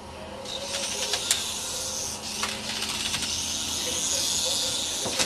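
PicoZ MX-1 micro RC helicopter's small electric motor and rotor running with a high, steady whir that starts about half a second in, with a few sharp clicks and taps mixed in.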